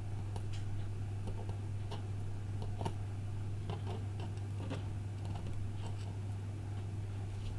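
Light, irregular clicks and taps of small tools and parts during iPhone 5 reassembly, over a steady low hum.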